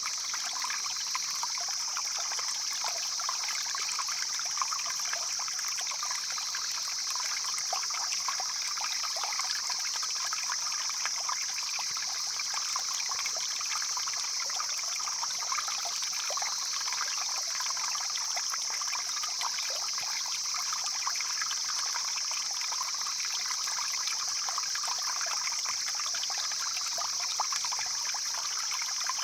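Stream flowing steadily, water trickling and splashing over stones, with a steady high-pitched hiss running over it.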